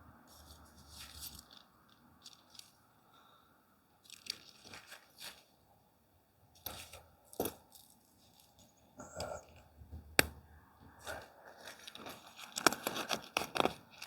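Tent fabric and gear being handled: irregular bursts of rustling, crinkling and scraping, with a sharp click about ten seconds in and busier handling near the end.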